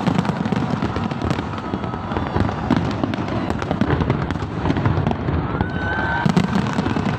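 Aerial fireworks display going off in a dense, continuous run of bangs and crackles, with a brief rising whistle about five and a half seconds in.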